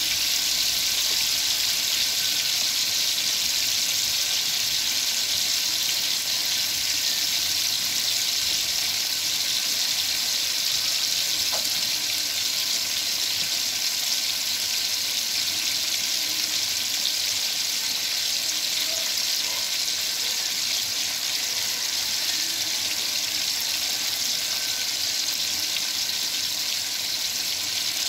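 Food frying with a steady, even sizzle.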